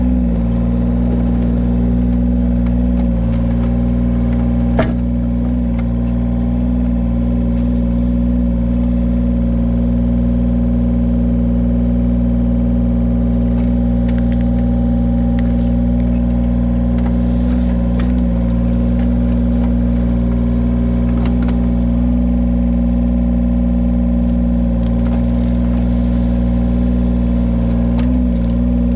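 Engine of a powered firewood-splitting machine running steadily, its note dipping briefly a few times under load, with a sharp knock about five seconds in.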